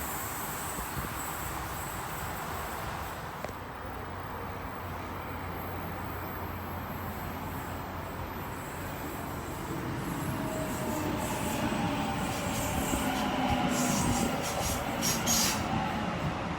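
Sydney Trains Waratah (A-set) electric suburban train moving at a station platform: a steady rumble that grows louder after about ten seconds, with a rising whine and wheel squeal over it and a run of sharp high ticks near the end.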